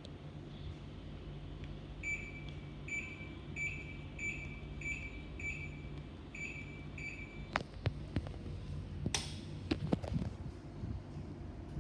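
Samsung AS05UUPN mini-split air conditioner beeping eight times, short high beeps about 0.7 s apart, the way the indoor unit acknowledges remote-control button presses, over a low steady hum. A few sharp clicks and knocks follow near the end.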